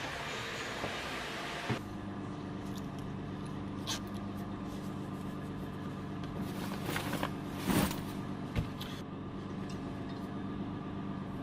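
A steady low mechanical hum with a few short clicks and knocks, coming in after a brief stretch of noisy hiss.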